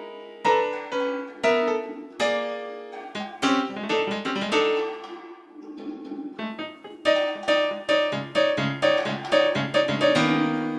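Keyboard with a piano sound playing a melodic passage of struck notes that ring and fade, in a studio jazz recording. About eight seconds in, lower bass notes join underneath.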